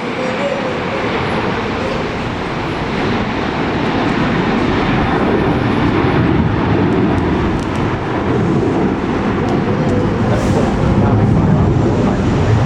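Jet airliner engine noise, a steady rushing rumble that slowly grows louder.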